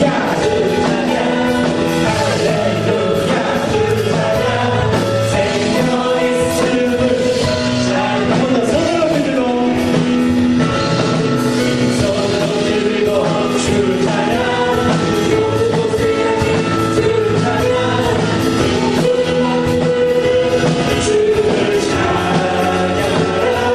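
Live contemporary worship song: a praise team's singers over band accompaniment with a steady beat.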